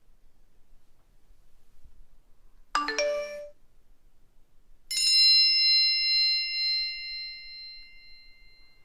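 A short chime stepping between two notes, then about two seconds later a single bright bell-like ding that rings on and slowly fades over several seconds.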